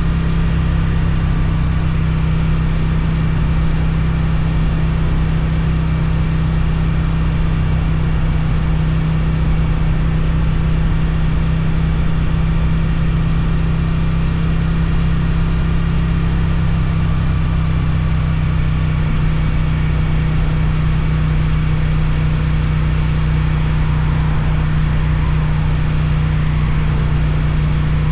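Suzuki GSX-8TT motorcycle's twin-cylinder engine through an Akrapovic exhaust, running steadily at an even speed with no revving or gear changes.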